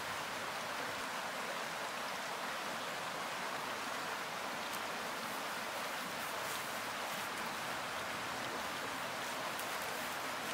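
Steady rushing hiss of water, even throughout, with a few faint high ticks.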